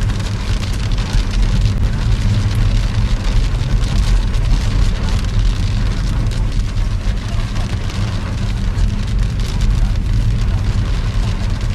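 Heavy rain falling steadily and pattering on hard surfaces, with a steady low rumble beneath it.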